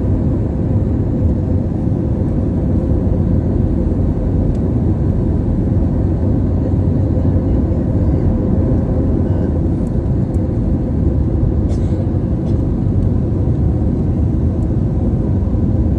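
Steady low rumble of an airliner's cabin in flight, engine and airflow noise with a faint steady hum, and a few light clicks after about ten seconds.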